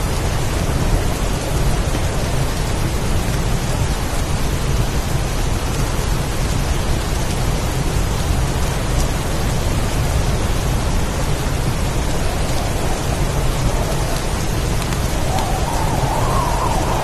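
Heavy, steady rainstorm with a deep continuous rumble underneath. Near the end a faint wavering howl of wind rises over the rain.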